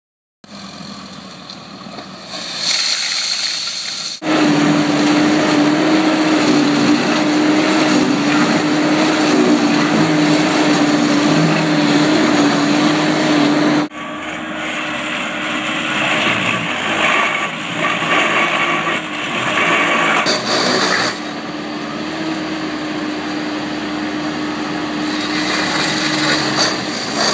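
Hi-rail backhoe engine running steadily with a constant hum, its level and pitch stepping up or down abruptly a few times.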